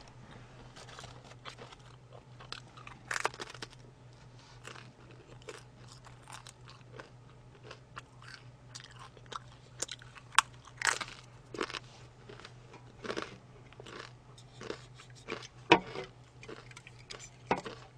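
Close-up eating of crispy fried potatoes: irregular crisp crunches and bites with quieter chewing between, a few sharper crunches standing out. A faint steady low hum runs underneath.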